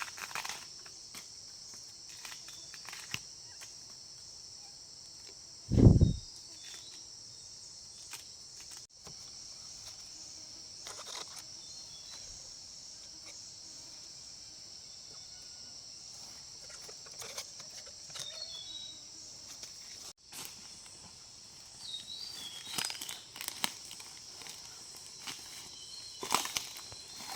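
Steady high-pitched chorus of insects such as crickets or cicadas, with scattered footsteps and rustling and crackling of vegetation. A loud low thump comes about six seconds in.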